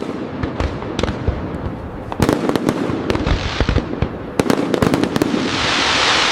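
Fireworks display: a run of sharp bangs and crackles that thickens about two seconds in, with a hissing swell near the end.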